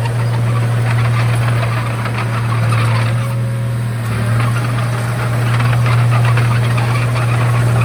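Komatsu D31A bulldozer's diesel engine running steadily with a deep drone, with dense clattering over it.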